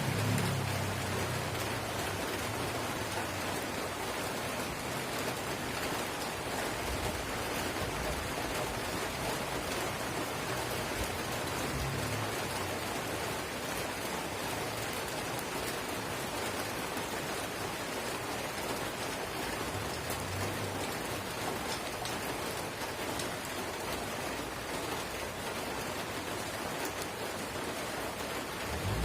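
Drizzle of light rain falling steadily, an even hiss of drops on surfaces. A brief low rumble sits under it near the start, and fainter ones come twice later.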